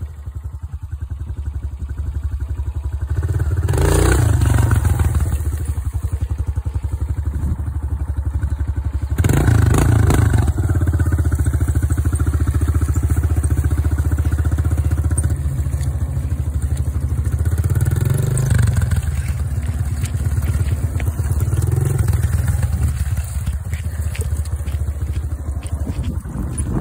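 Dirt bike engine running as it is ridden, revving up and easing off several times.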